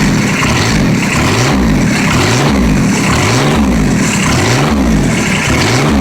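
Kubota G5200 pulling tractor's diesel engine running after a cold start without the glow plug, revved up and down about once a second.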